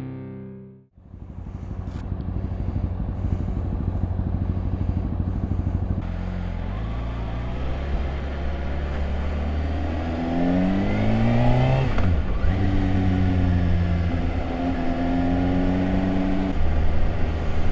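2013 Kawasaki Ninja ZX-6R 636's inline-four engine running on the move after the tail of the intro music ends about a second in; its pitch climbs as the bike accelerates, dips sharply at a gear change, then holds steady, with another drop near the end.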